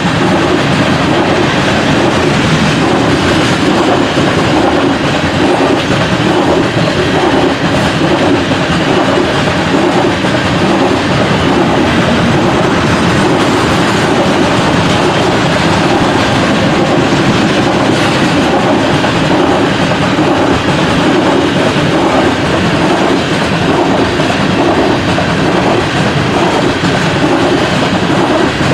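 Loaded coal train's hopper cars rolling past: a loud, steady rumble of steel wheels on rail with a repeating clatter.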